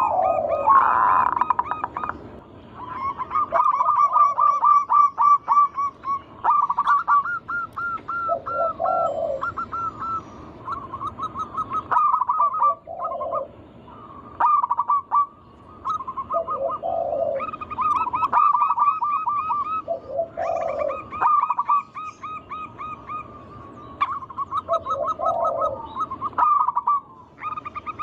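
Zebra doves (perkutut) singing over and over. Each phrase is a rapid run of short, clipped notes followed by a lower cooing note, repeating every few seconds with phrases overlapping.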